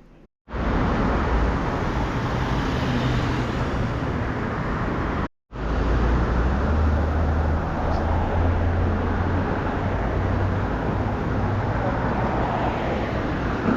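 Steady vehicle noise with a strong low hum, broken by two abrupt silent gaps: one near the start and one about five seconds in.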